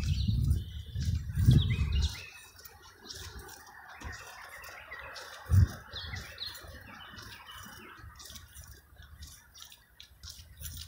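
Small birds chirping and twittering, thickening into a dense chatter through the middle. There are a few low thumps in the first two seconds and one more about halfway.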